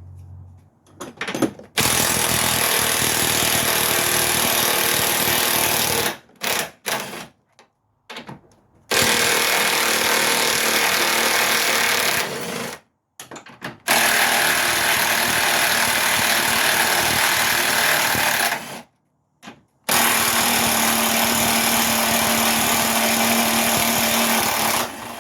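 Impact wrench hammering at stuck transmission-mount bolts in four long runs of about four seconds each, with short blips of the trigger in between.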